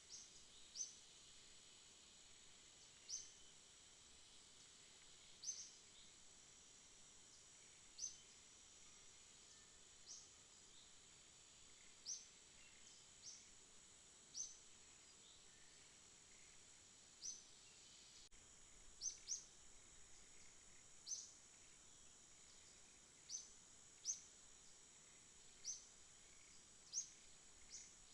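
Night insect chorus: a steady, high-pitched trill. Over it come short, sharp rising chirps, singly or in quick pairs, every second or two.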